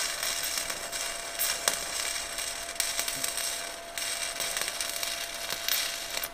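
Stick (arc) welding: the electrode's arc crackling and sizzling steadily with scattered sharp pops, cutting off suddenly near the end.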